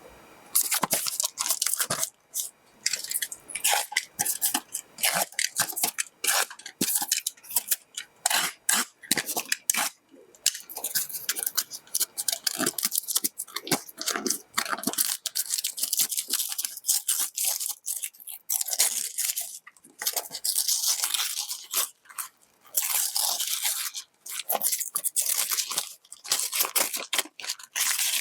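Packaging being handled and torn open by hand: irregular crinkling, rustling and tearing of plastic and paper, with short pauses between bursts.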